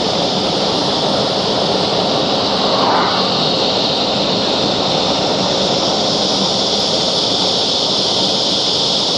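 A loud, steady chorus of cicadas with a high, even drone, heard from a moving car through an open window. Wind and road noise from the car run underneath it.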